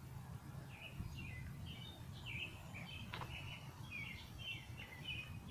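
A songbird singing a quick string of short chirps, over a steady low background rumble.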